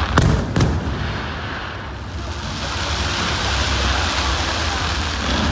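Aerial fireworks going off: two sharp bangs about half a second apart near the start, followed by a steady wash of noise from the display.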